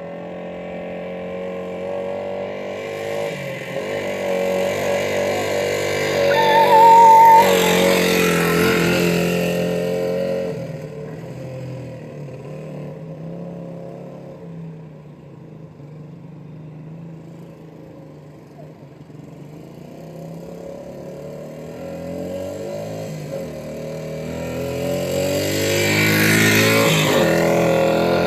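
Dirt bike engine riding past twice, growing louder as it approaches, peaking about a quarter of the way in, fading away, then coming back loud near the end.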